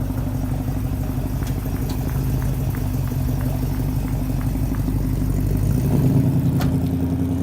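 Car engine running at low revs close by, a steady low note that gets louder and rises slightly about six seconds in.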